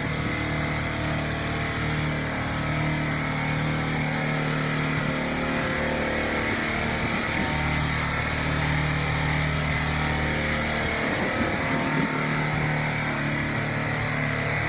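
2002 Yamaha Bear Tracker 250's single-cylinder engine running cold at a steady high fast idle, revving high because the choke is pulled fully out.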